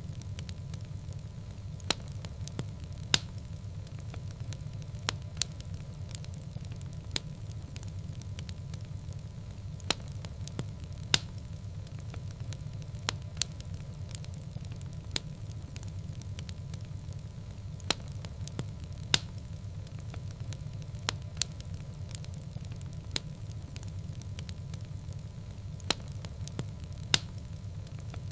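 Wood fire burning in a fireplace: a steady low rumble with sharp crackles and pops at irregular intervals, about one every second or two.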